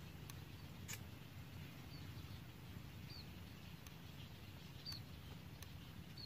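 Faint, steady low background noise with about four short, high, curling chirps from a bird spaced through it, and a few faint ticks.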